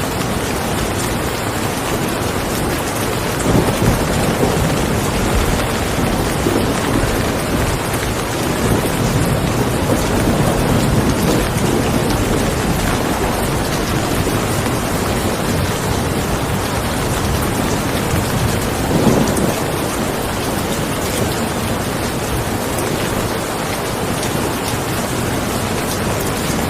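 Steady, heavy rain falling, with low rumbles of thunder swelling a few times: about four seconds in, again around ten seconds, and once more near the middle.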